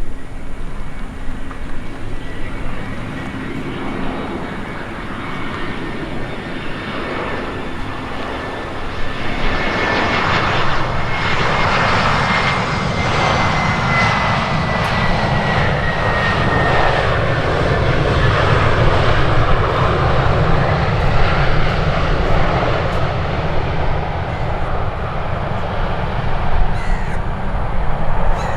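Airliner engines passing close by: the noise swells about a third of the way in, and a high whine slowly falls in pitch as the aircraft goes past, leaving a steady rumble.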